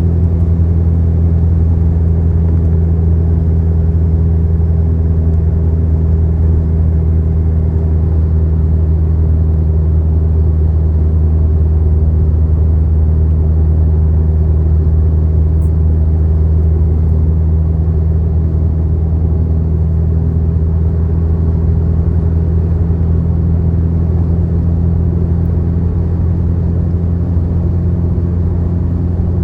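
Car travelling at highway speed: a steady, loud low drone of engine and road noise that holds unchanged throughout.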